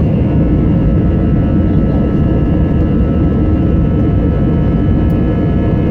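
Airliner jet engines running steadily: a constant low roar with a faint steady high whine over it.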